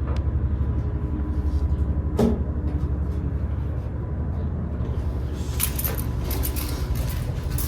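Honda Jade 250's inline-four engine running steadily through a CBX400F muffler, with a low, fast, even exhaust pulse. A run of sharp clicks and rattles joins it about five and a half seconds in.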